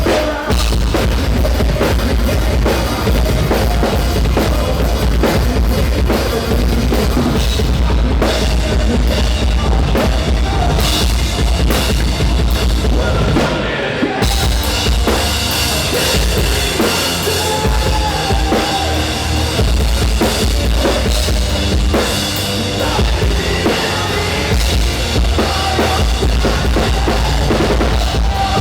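A band playing loud music with a full drum kit: bass drum, snare and cymbals driving under pitched instruments. There is a brief break about fourteen seconds in before the music carries on.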